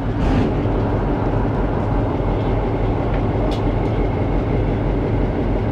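Steady, deep rumble of a moving vehicle's engine and running noise.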